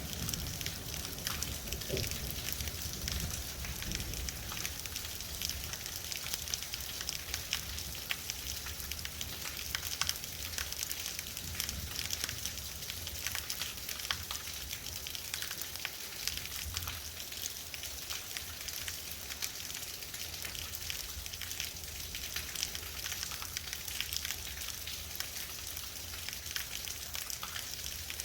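Very heavy rain falling steadily, a dense hiss full of fine crackling drop impacts. In the first few seconds a low rumble sits beneath it.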